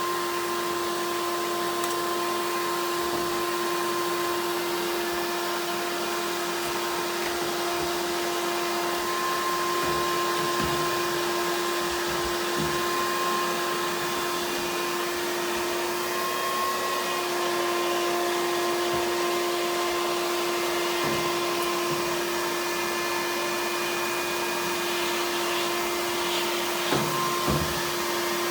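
Vacuum used for dryer-vent cleaning, its motor running steadily with a constant whine. A couple of brief knocks come near the end.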